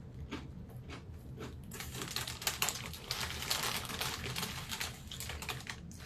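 Crunching of dill pickle–flavoured chips being chewed close to the microphone: a run of quick, irregular crackles, thickest from about two seconds in.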